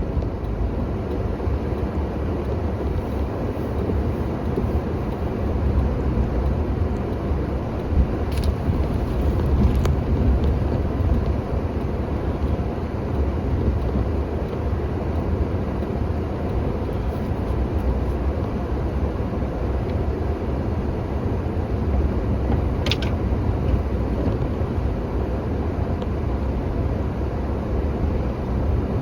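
A motor vehicle's engine running steadily as a low, continuous rumble, with a couple of brief faint clicks.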